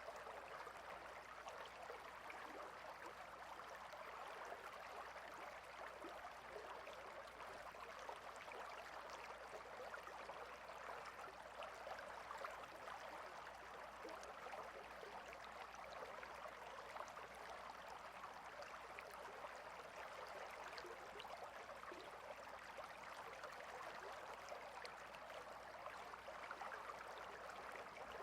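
Small stream flowing steadily, a quiet, even rush of running water with fine splashing flecks.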